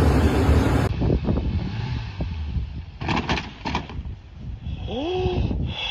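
Motor vehicle running with loud road noise that cuts off abruptly about a second in. A quieter stretch follows with a few knocks and short high-pitched pulses near the middle, and a rising glide in pitch near the end.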